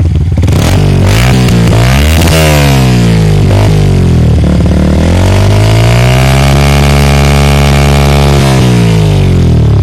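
Small single-cylinder Yamaha motorcycle engine with a racing full-system exhaust, revved in several quick blips and then in one long rev. The long rev is held high for about two seconds, then drops back toward idle near the end.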